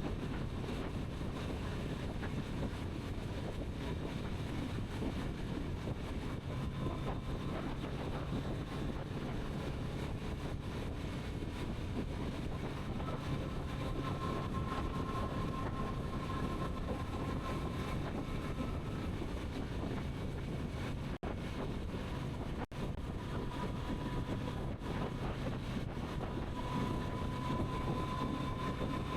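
Kawasaki Z900RS's 948 cc inline-four running at a steady cruise while riding, with wind rush over the microphone. A higher whine rises out of the engine sound for a few seconds mid-way and again near the end. The sound cuts out for a split second twice just past the middle.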